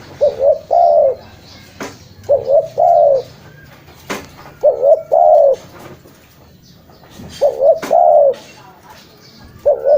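Spotted dove (tekukur) cooing: a phrase of two short notes followed by a longer, slightly falling note, repeated four times about every two and a half seconds, with a fifth phrase starting at the very end. Two sharp clicks fall between phrases.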